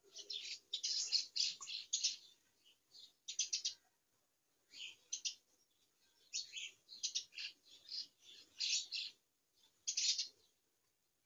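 Birds chirping in repeated short, high-pitched bursts, with brief pauses between them.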